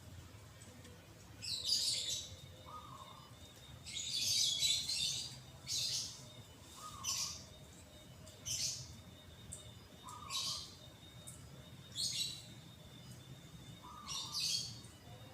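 Birds chirping: short, high bursts of calls come every second or two, with a softer, lower single note repeating every few seconds in between.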